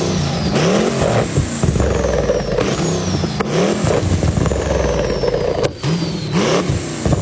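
Car engine revved again and again through a loud modified exhaust. Each rev rises and falls in pitch, and after each one a high whistle falls in pitch.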